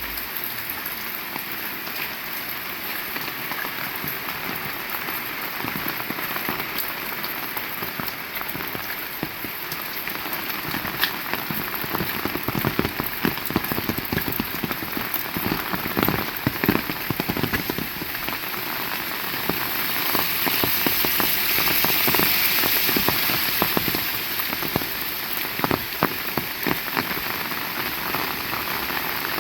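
Heavy rain falling: a steady, dense patter of raindrops on surfaces, swelling louder about two-thirds of the way through and then easing back.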